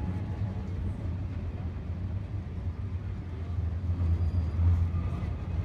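Passenger train rolling along the track, heard from aboard one of its cars: a steady low rumble of wheels on rails.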